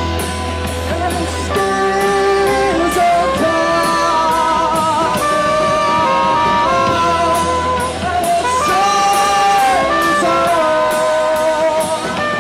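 Live rock band playing: a wavering lead melody with vibrato over long held bass notes and steady cymbal strikes.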